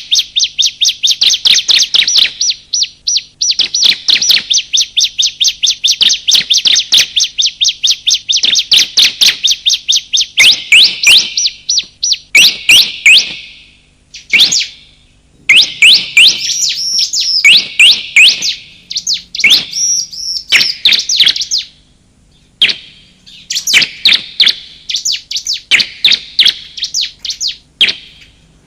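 Bar-winged prinia (ciblek) calling: a long, fast run of sharp, high chip notes, then shorter bursts of quick rising notes with brief pauses between them.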